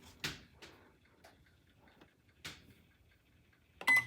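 A few faint, scattered clicks and taps, then near the end a microwave oven's keypad gives a short high beep.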